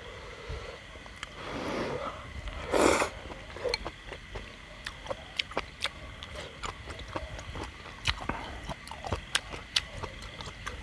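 Close-up mouth sounds of chewing a hot-pot mouthful, many short wet clicks and smacks, with a short loud rush of noise about three seconds in. Frogs call steadily and faintly in the background.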